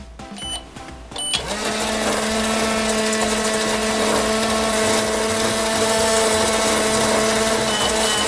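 Toy microwave switched on: two short beeps, then a steady electric hum for the cooking cycle. Near the end a run of quick, evenly spaced beeps starts, signalling that the cycle is done.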